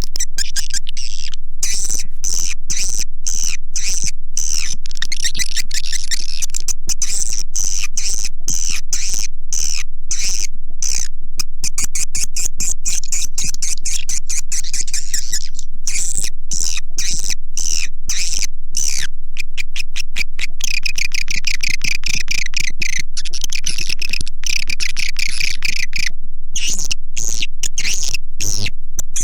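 Swiftlet lure recording: dense, high-pitched chattering and chirping of edible-nest swiftlets, broken by many short gaps, played loud and steady to attract swiftlets to a nesting house.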